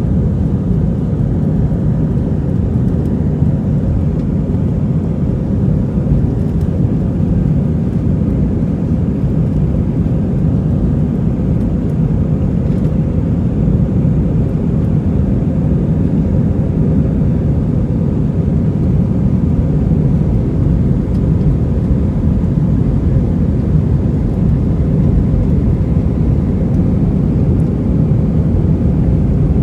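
Airbus A320 airliner cabin noise: a steady low rumble of the jet engines and rushing air, with a faint steady hum above it.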